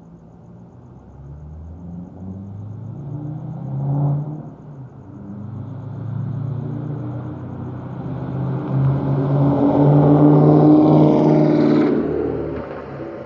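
2008 Ford Mustang GT's 4.6-litre V8 with high-flow cats, X-pipe and no mufflers, driving by under acceleration. It grows louder as the car approaches, with a brief surge and drop about four seconds in, is loudest near the end as it passes with a falling pitch, then fades.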